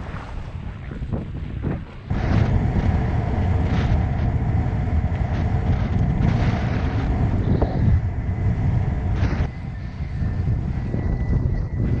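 Strong wind buffeting the microphone while windfoiling, with water rushing past; it gets much louder about two seconds in and eases near the end, with a faint steady high tone underneath.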